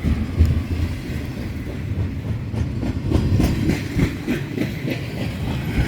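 Freight train rolling past on the rails: a steady low rumble with irregular knocks of the wheels over the track.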